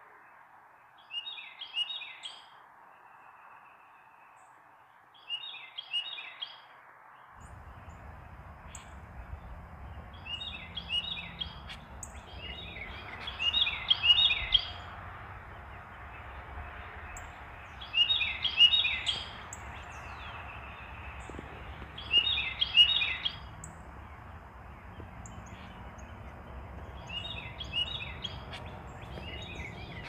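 A bird singing short phrases of quick falling notes, about seven phrases spaced a few seconds apart, over steady background noise.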